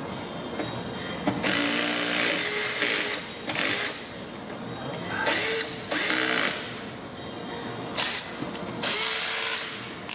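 Cordless drill with a socket bit running in short bursts, backing out the screws of a dryer's front panel. It makes about six runs, each opening with a rising whine that then holds; the longest lasts about a second and a half.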